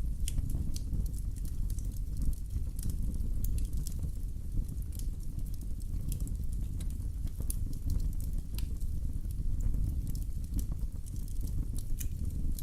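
Wood fire burning in a fireplace: a steady low rumble of flames with frequent small crackles and sharp pops scattered throughout.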